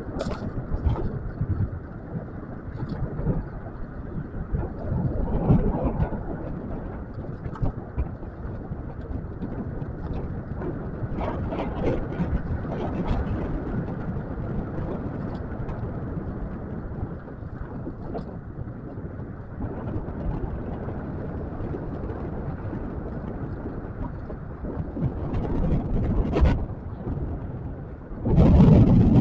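Wind buffeting the microphone over steady road rumble and scattered knocks from a scooter riding over rough, uneven pavement, with a louder gust near the end.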